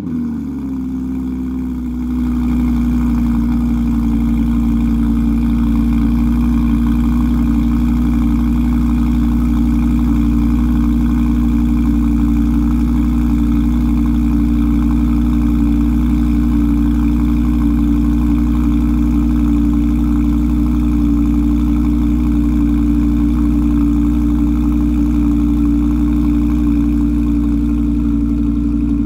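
Audi R8 V10 Plus's 5.2-litre naturally aspirated V10 just after start-up. Its revs fall off the start-up flare in the first moment, and it then idles steadily, a little louder from about two seconds in.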